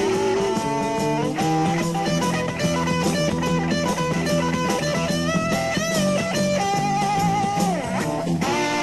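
Live psychedelic rock band playing an instrumental passage: a lead electric guitar plays held notes with bends and vibrato over bass and drums.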